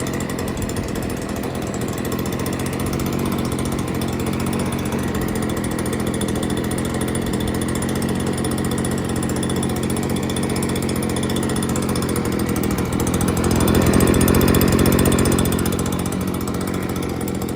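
Stihl BG 86 C handheld leaf blower's two-stroke engine running steadily, growing louder for about two seconds some three-quarters of the way through before settling back.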